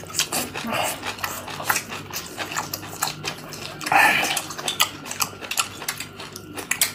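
Close-miked chewing of spicy pickled napa cabbage and braised pork: wet crunching and lip smacking in quick, irregular clicks, with a louder burst about four seconds in.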